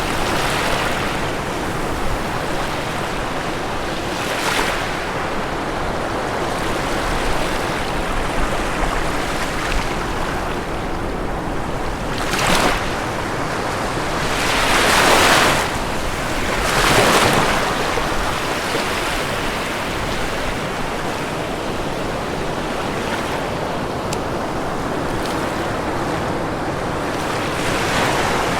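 Ocean waves breaking on a shore: a steady wash of surf, with several louder breakers surging in over the middle of the stretch.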